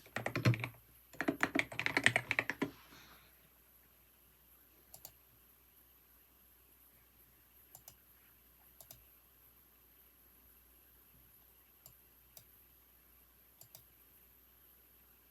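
Computer keyboard typing in quick runs of key clicks for about the first three seconds. After that come only a few single clicks, spaced seconds apart.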